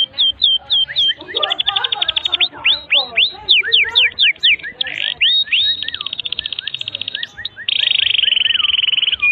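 Domestic canary singing a long, fast song: rapid runs of downward-sweeping high notes and quick trills, ending in a long buzzing roll.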